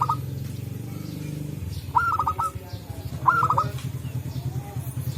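Zebra doves (perkutut) calling: three short phrases of quick staccato cooing notes, one at the start, one about two seconds in and one a little over three seconds in, with another starting at the very end. A steady low hum runs underneath.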